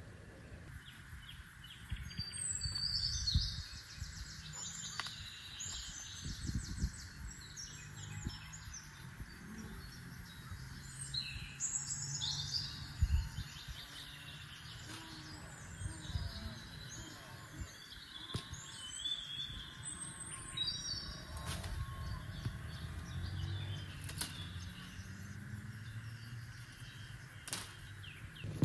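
Birds singing in bursts of quick, high chirping trills, over a steady faint hum and scattered low knocks and rustles.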